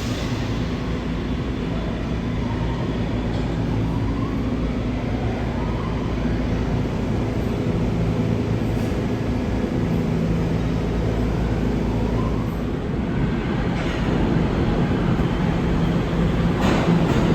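R211 subway train running steadily, with a low rumble and a faint rising motor whine a few times.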